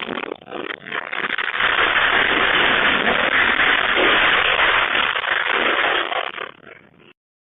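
Loud, continuous rattling and clattering of a building and its contents shaken by an earthquake, swelling about a second in, easing near the end and cutting off suddenly.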